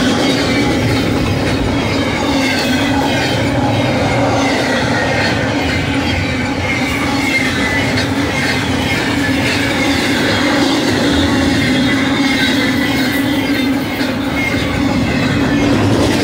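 Double-stack container train's well cars rolling past at speed: a steady rumble of steel wheels on rail, with a wavering high-pitched wheel squeal over it.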